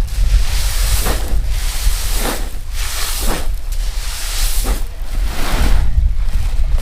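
Wind buffeting the microphone as a steady low rumble, with a rustling swish about once a second.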